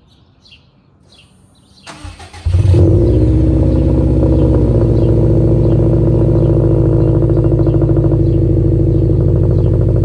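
Birds chirp, then about two seconds in the 2021 Subaru WRX STI's turbocharged 2.5-litre flat-four cranks briefly on the starter and catches. It then runs at a loud, steady cold-start high idle through its Remark axle-back exhaust.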